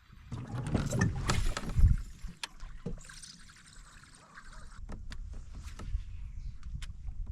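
Knocks, clunks and scraping on a fishing kayak as the person in it moves about, loudest in the first two seconds, then a low rumble with scattered clicks.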